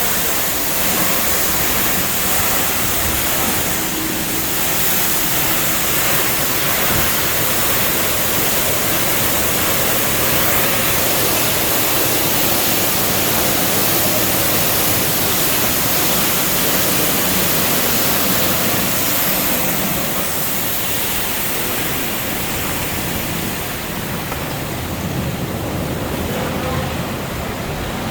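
Automatic tunnel car wash's high-pressure water jets spraying a car: a loud, steady hiss of rushing water that eases slightly near the end.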